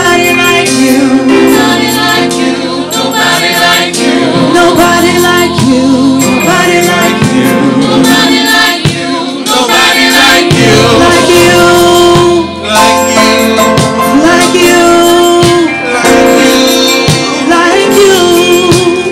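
Live gospel worship music: singers, including a choir, over a band with steady percussion.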